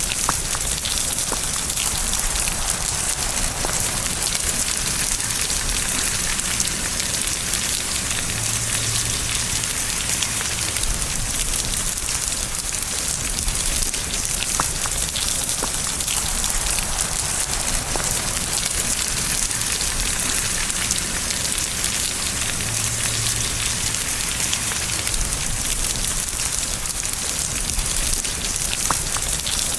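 Steady rain falling and pattering on a surface, an even hiss with scattered fine drop ticks.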